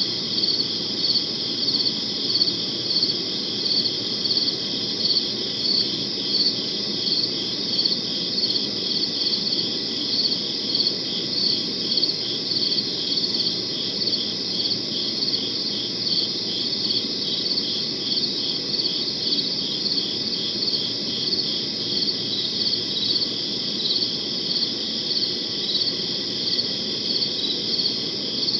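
Crickets chirping in a steady night chorus: one insect's high chirps repeat evenly, a little more than once a second, over a denser continuous trill, with a low steady hiss underneath.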